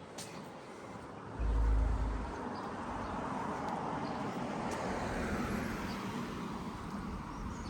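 A car passing on the street, its tyre and engine noise swelling to a peak around the middle and then fading away. A brief low rumble about a second and a half in is the loudest moment.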